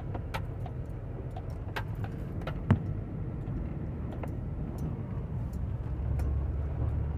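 Ice being broken up, giving scattered sharp cracks and knocks with one loud thump about two and a half seconds in. Under it runs the steady low rumble of a vehicle engine.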